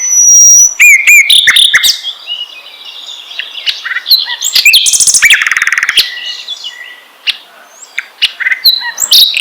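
Songbird singing a fast, varied chattering song of whistles, chirps, sweeping notes and a rapid buzzy trill about halfway through: a lure song played to get other songbirds to start singing.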